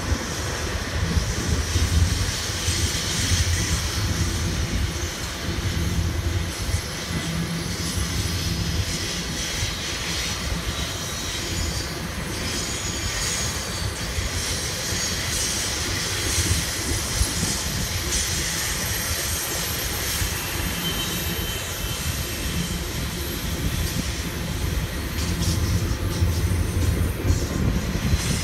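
Freight train cars, double-stack container well cars among them, rolling past: a steady rumble of steel wheels on rail with hiss above it.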